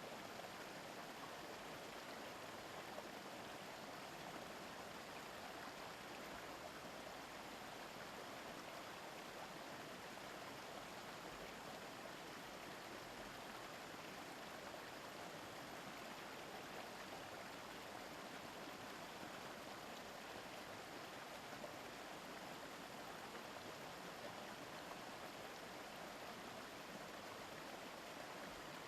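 Mountain stream babbling steadily, an even rush of running water.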